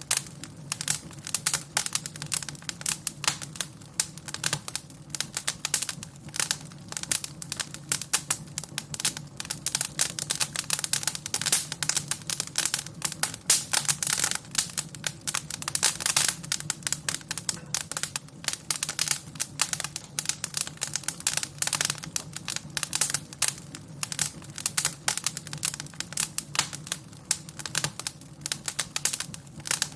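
Wood fire crackling in a fireplace: many irregular pops and snaps over a steady low rumble of the flames.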